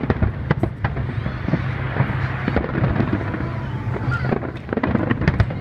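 Fireworks display: a dense, continuous run of bangs and crackles from aerial shells, over a steady low rumble.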